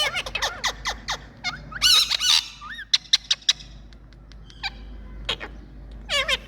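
Two pet Indian parrots calling: a quick run of short, falling chirps at the start, a harsh screechy burst about two seconds in, then scattered single calls and another quick cluster near the end.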